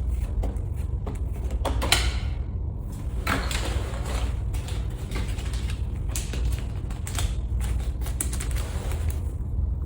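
Irregular mechanical clicks, knocks and creaks over a steady low rumble.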